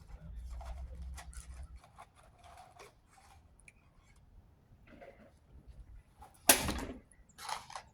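Close handling noises while eating fast-food fries: scattered small clicks and rustles, a loud crackle about six and a half seconds in and a shorter one a second later.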